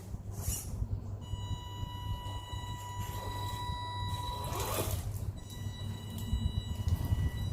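Traction Hobby Cragsman RC crawler's electric motor whining at a steady high pitch while it crawls at low throttle, in two stretches with a short break just before the middle. A few brief scuffs and knocks come from the truck on the surface it is climbing.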